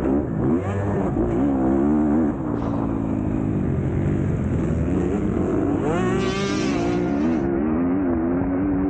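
MX2 motocross bike engine revving up and down under racing throttle, its pitch dropping and climbing again and again, with a high climbing rev about six seconds in.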